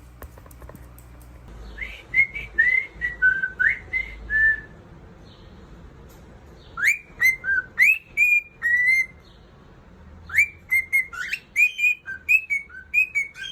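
A parrot whistling: three runs of short, clear whistled notes, each note swooping sharply up in pitch, with short pauses between the runs.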